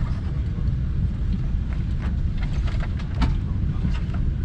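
Steady low rumble of a Boeing 747-8's passenger cabin before departure, with scattered faint clicks and knocks, the sharpest about three seconds in.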